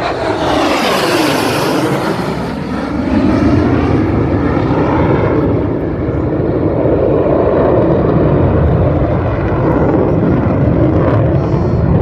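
Jet aircraft flying low past in an air-show flypast. Its pitch drops over the first two seconds as it passes, then settles into a steady, loud roar.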